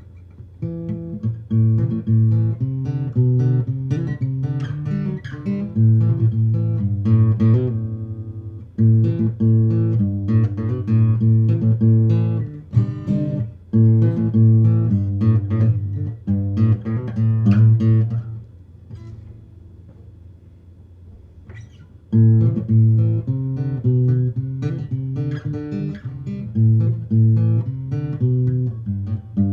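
Unamplified Luna steel-string acoustic guitar played fingerstyle, with picked notes and chords in running phrases. A softer, thinner passage comes about two-thirds of the way through before the full playing returns.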